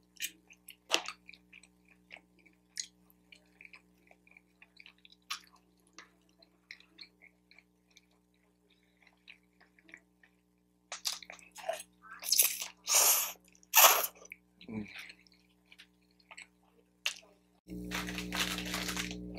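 Close-miked eating of takeout lo mein noodles and General Tso's chicken: soft wet chewing and mouth clicks, louder for a few seconds past the middle. Near the end comes a louder rustling of plastic wrapping.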